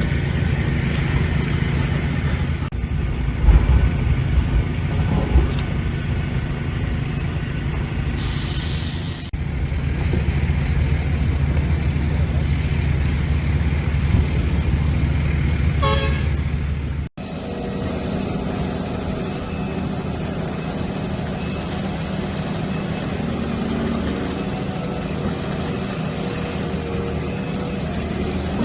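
Diesel engine of heavy construction machinery running steadily, with a short hiss about eight seconds in. The sound cuts off abruptly a little past halfway, then a similar, slightly quieter engine hum carries on.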